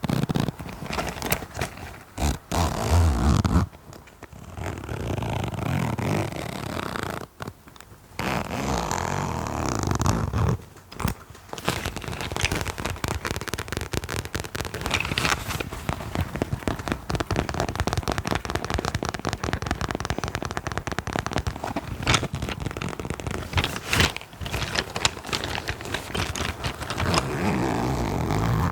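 Close-miked ASMR tapping and scratching on objects: uneven rubbing with short pauses at first, then rapid, dense scratching strokes from about twelve seconds in.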